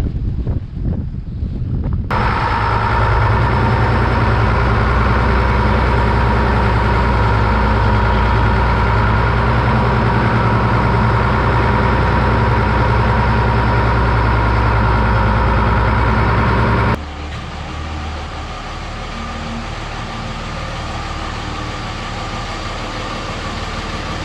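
Wind on the microphone, then abruptly a loud, steady vehicle engine running with an even hum. Near the end it drops suddenly to a quieter, steady engine sound.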